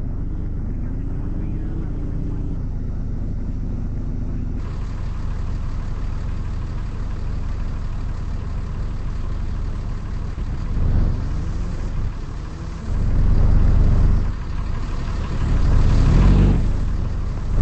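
Car engine running with a steady low rumble, then revved in several louder swells from about ten seconds in, the last climbing near the end.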